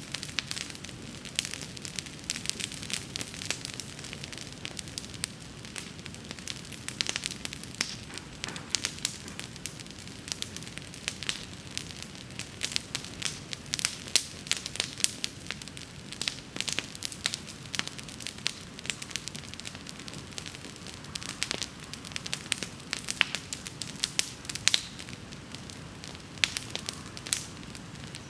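Wood bonfire crackling and popping irregularly, many sharp snaps throughout, over a steady low rumble.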